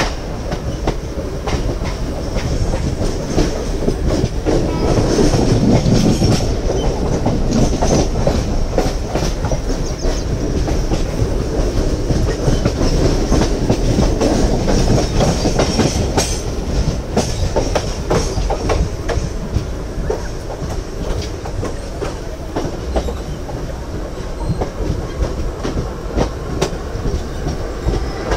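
Mumbai suburban electric local train running at speed, heard from its open doorway: a steady rumble with the clickety-clack of wheels over rail joints.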